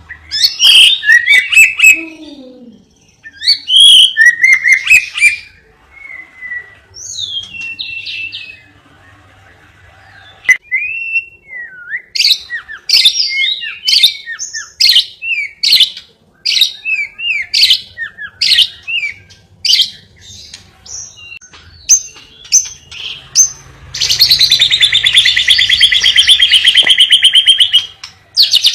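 Cage-bird song: varied chirps, whistles and quick sharp notes, then a long, very rapid buzzing trill of about four seconds near the end that cuts off abruptly.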